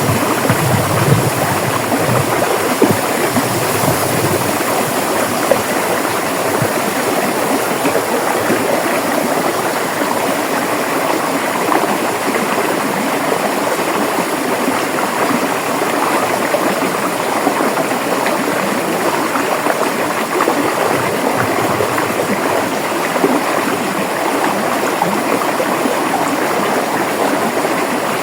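River water flowing and burbling over rocks, a steady rush.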